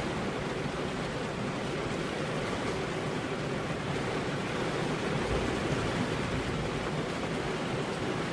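Steady heavy rain, a continuous even hiss with no distinct drops, thunder or gusts standing out.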